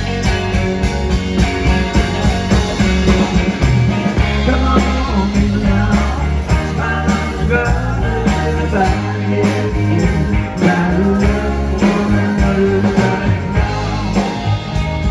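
Live rock band playing a mostly instrumental passage, with a steady bass line and a regular drum beat.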